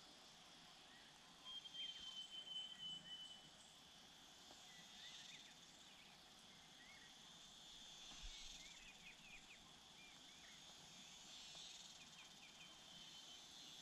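Faint outdoor natural ambience: insects giving a steady high drone, with a louder high trill for about two seconds near the start and scattered short bird chirps later.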